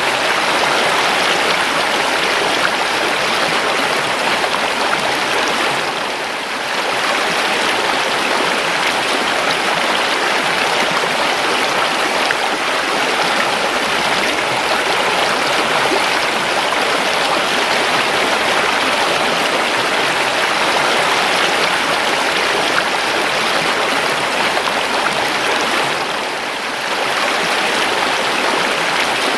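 River water flowing steadily: an even rush of running water that softens briefly twice.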